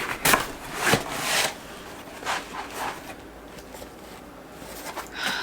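A package being opened by hand: short bursts of rustling, tearing and scraping of cardboard and paper packaging.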